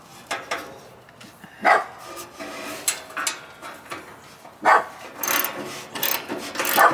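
A dog barking, a few separate barks a couple of seconds apart.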